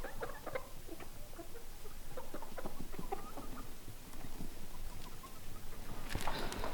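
Chickens clucking softly, with short, scattered calls. A brief, louder rustle comes near the end.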